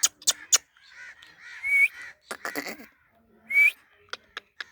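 Pet parrot squawking in short harsh calls, with two brief rising whistle notes in between and a quick run of sharp chirps near the end.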